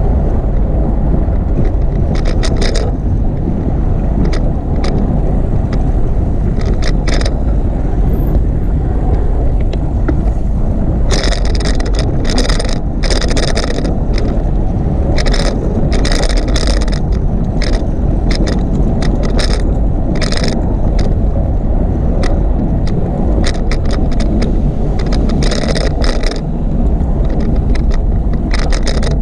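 Steady loud rumble of wind and road noise on a bicycle-mounted camera's microphone while riding, with irregular bursts of rattling clicks from the bike, heaviest in the middle and again near the end.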